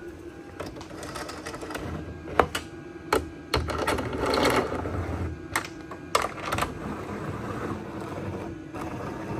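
Irregular sharp clicks and knocks of hands working on a pickup's plastic side-mirror parts, with a scratchy rustle about four seconds in.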